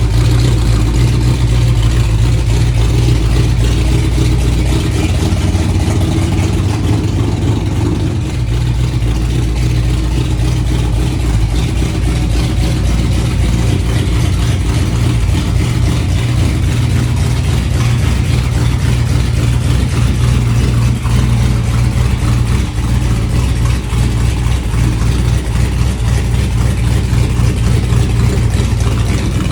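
Car engine idling steadily, a low even rumble with no revving.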